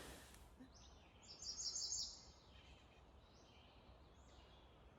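A songbird singing faintly: a quick, high warbling phrase about a second in, followed by a few fainter high calls.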